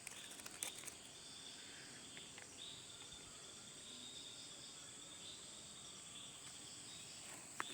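Steady, faint high chirring of insects such as crickets, with a couple of soft clicks about half a second in and a sharper one near the end.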